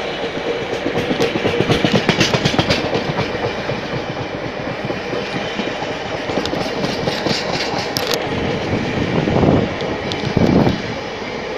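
Loaded coal hopper wagons of a freight train rolling past close by: a steady rumble with bursts of rhythmic clickety-clack as the wheels pass over rail joints. Two brief louder swells of rumble come near the end.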